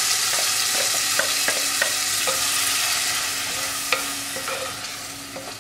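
Ground masala paste sizzling as it hits hot oil in a clay pot, with a wooden spoon scraping and knocking as the paste is stirred in. The sizzle eases off a little toward the end.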